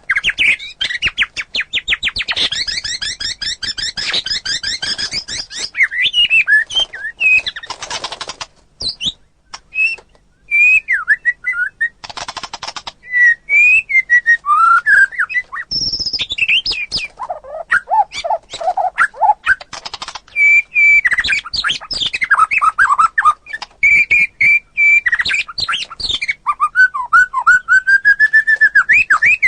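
White-rumped shama (murai batu) singing a loud, varied song: clear whistled and sliding notes mixed with fast rattling trills and short harsh buzzy chatters, with a long arching whistle near the end.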